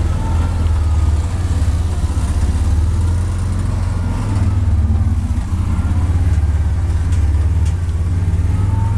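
A small off-road vehicle's engine running steadily, with a faint whine rising and falling in pitch above it.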